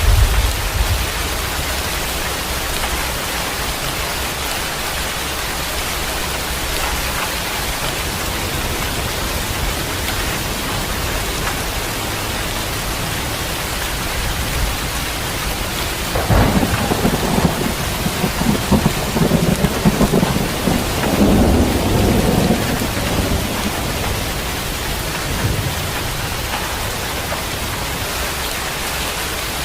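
Heavy rain falling steadily, with a clap of thunder about halfway through that rolls and rumbles for several seconds before fading back into the rain.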